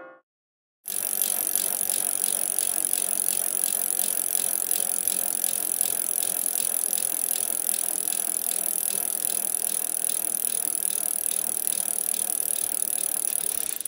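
A played sound effect of steady, rapid, even clicking and rattling over a hiss, starting about a second in after a short silence.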